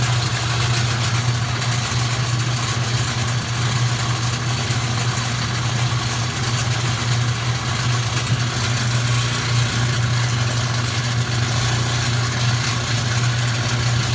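Faulty washing machine running with a loud, steady low hum under a harsh, noisy whir: the very bad noise of the broken washer.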